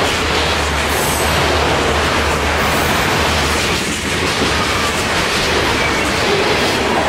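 Freight cars of a BNSF train, autoracks then tank cars, rolling past close by: a steady loud rush and rattle of steel wheels on the rails.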